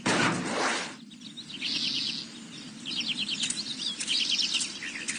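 A short rushing noise for about the first second, then birds chirping in quick repeated runs of high notes over a steady low background hiss.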